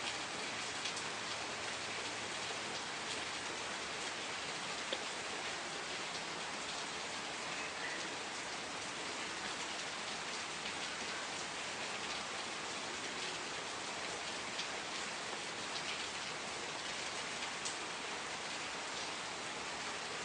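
Steady rain falling and pattering on a surface, with a dense spray of small drop ticks.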